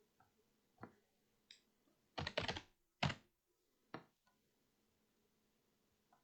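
Key presses and clicks at a computer keyboard, a few single taps with a quick run of keystrokes about two seconds in.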